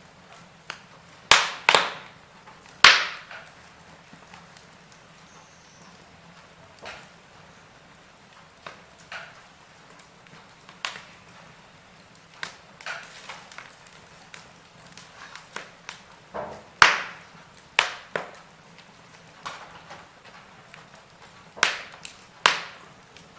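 Wood fire crackling in a fireplace: irregular sharp pops and snaps, a handful much louder than the rest, over a faint low hum.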